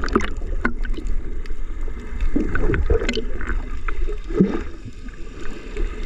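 Low steady rumble with irregular water splashing and gurgling, as from a boat moving over the water.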